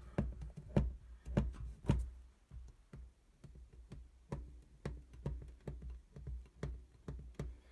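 Irregular light knocks and taps from hands pressing and smoothing epoxy repair putty onto the underside of a stainless steel sink, with the three loudest knocks in the first two seconds.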